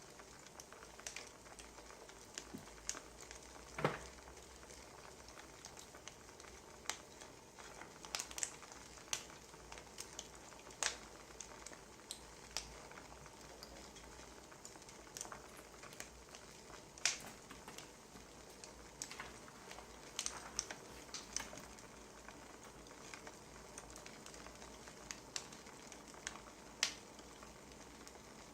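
Wood fire crackling: irregular sharp pops and snaps over a faint steady hiss, with a louder pop about four seconds in.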